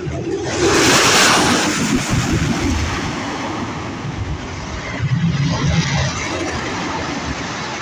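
An aircraft flying past, loud: a rushing burst about half a second in that settles into a steady low rumble, swelling again around the fifth second.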